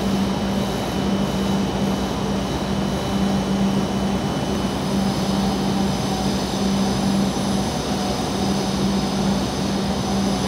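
W7 series Shinkansen standing at the platform with its onboard equipment running: a steady mechanical drone with a low hum that wavers slightly in level and faint high whines.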